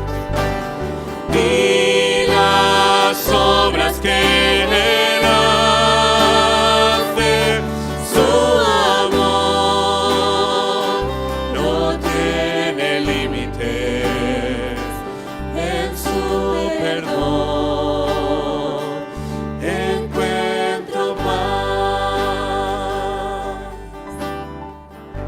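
Church hymn music: sung voices with vibrato over an instrumental accompaniment with held bass notes, dropping somewhat in level near the end.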